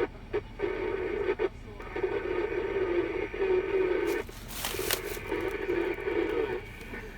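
Yaesu FTM-400XDR mobile transceiver's speaker playing a weak, garbled FM signal relayed through the International Space Station's amateur radio repeater. The signal keeps breaking up, with a burst of hiss about four and a half seconds in.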